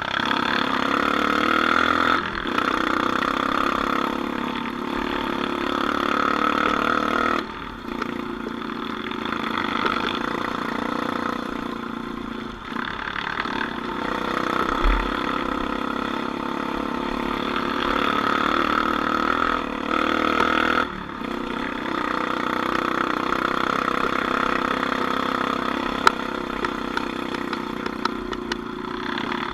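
Off-road vehicle engine running steadily, the throttle easing off briefly several times before picking up again.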